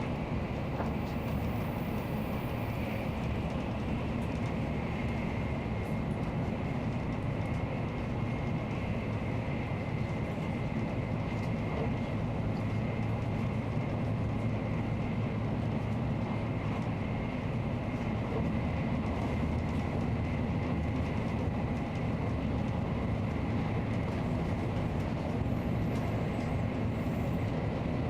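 Nozomi Shinkansen bullet train running at speed: a steady rumble and rushing noise with a faint, steady high whine.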